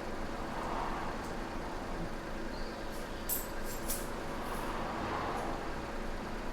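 Steady vehicle rumble with a low hum, and a few faint clicks about three to four seconds in.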